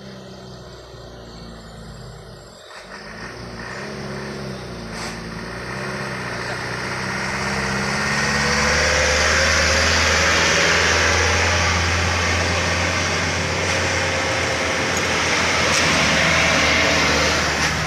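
A truck engine running, growing steadily louder over the first several seconds as the truck draws near, then staying loud with a deep steady drone and a broad rush of engine and road noise.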